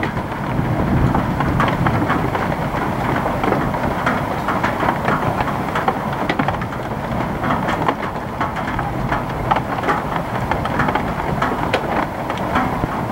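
Heavy rain pouring down, with a dense patter of sharp ticks from drops and small hail striking hard surfaces, over a low rumble of strong wind on the microphone.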